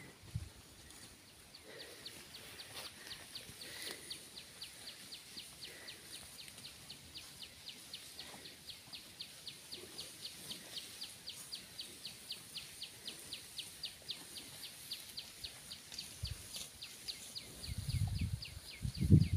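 A small bird calling a long, even series of short high chirps, about four a second, starting a couple of seconds in. Low rumbling noise swells near the end.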